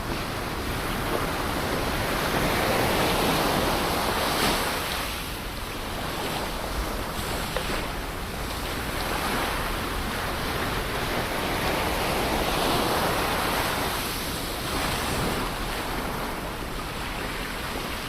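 Ocean surf washing onto a shore, a steady rush of water that swells and eases every few seconds as waves break.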